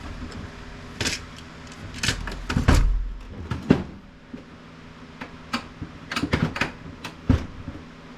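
Plastic parts of an HP Envy Photo inkjet printer being handled during disassembly: a string of irregular knocks and clacks, with a heavier thump about three seconds in, over a steady low hum.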